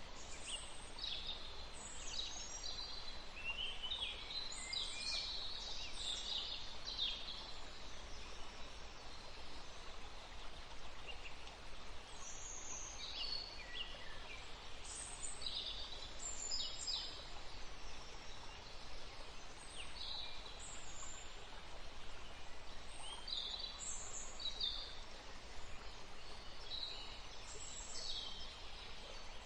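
Songbirds chirping and trilling in scattered clusters of short high calls over a steady outdoor hiss.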